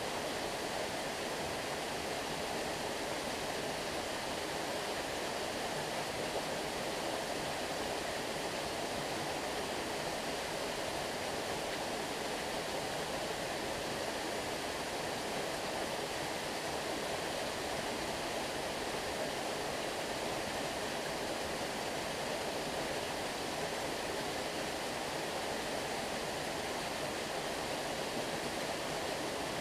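Stream water rushing steadily, an even unbroken flow.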